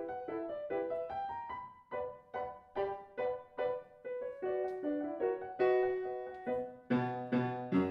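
Background piano music: a gentle melody of separate notes, about two to three a second, with lower bass notes coming in near the end.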